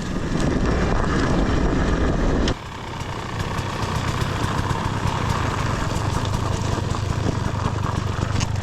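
Dirt bike engine running loudly along with rushing noise. About two and a half seconds in, the sound drops suddenly to a dirt bike idling steadily.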